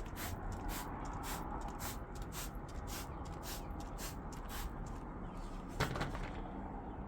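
Cloth wiping down patio furniture with vinegar in quick, rhythmic scrubbing strokes, about two to three a second, easing off after about five seconds; a single sharp knock a little before six seconds in.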